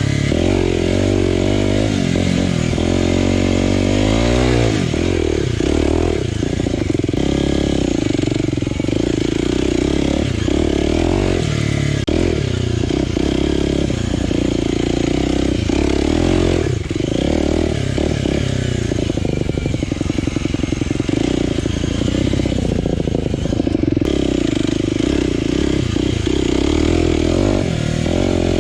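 Aprilia RX125 4T's single-cylinder four-stroke engine, breathing through a Snell slip-on silencer with dB killer, under way: its pitch rises and falls over and over as the throttle is opened and closed and gears are changed.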